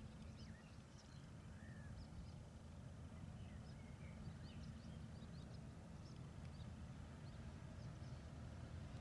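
Faint low rumble of a distant regional train with an E464 electric locomotive approaching, slowly growing louder, with many short bird chirps over it.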